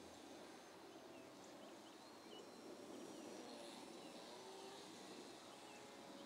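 Faint outdoor ambience with scattered distant bird chirps.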